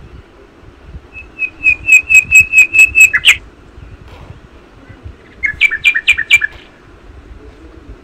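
A bird singing two phrases of quick repeated whistled notes. The first phrase has about ten notes and ends in a sharp downward sweep; the second is shorter.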